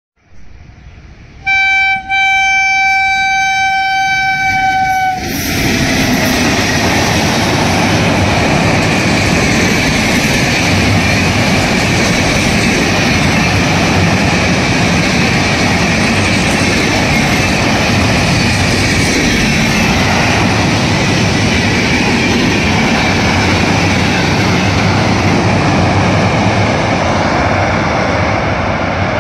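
Indian Railways locomotive sounding its horn, a short blast then a longer one of about three seconds whose pitch drops slightly as it ends. The train then passes close by at speed with a loud, steady rush of wheels and cars for the rest of the stretch.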